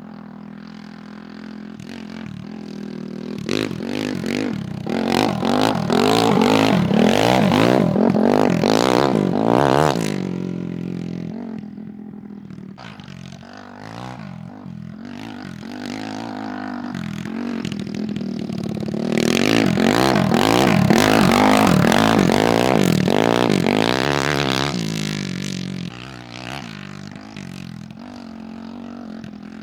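Honda CRF450 single-cylinder four-stroke engine in a go-kart running and revving as the kart is driven. It grows louder and fades away twice, about four seconds in and again about nineteen seconds in.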